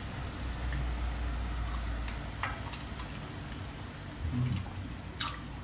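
Fried chicken tenders being bitten and chewed, a few soft crunches over a steady low room hum.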